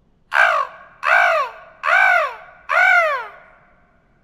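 A person imitating a crow with her voice: four harsh caws about 0.8 s apart, each rising then falling in pitch.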